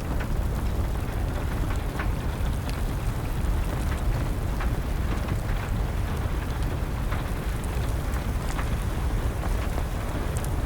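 Wood fire crackling with scattered sharp pops, over a steady rush of rain.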